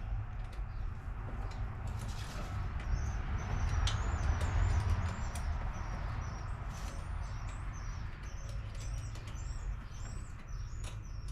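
Small birds chirping repeatedly in quick short calls over a steady low rumble, with scattered sharp clicks and a hiss that swells about four to five seconds in.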